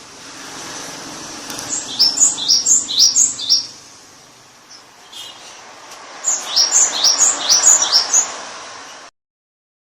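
Canary singing: two phrases of quick, repeated sharp notes that fall in pitch, three or four a second, over a steady hiss. The sound cuts off suddenly near the end.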